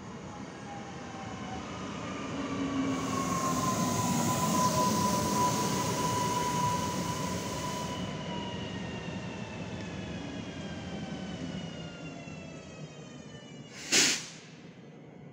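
EN63A electric multiple unit pulling in and braking to a stop: its motor whine falls steadily in pitch as it slows, over running noise from the wheels that swells and then fades. Near the end comes a short, loud hiss.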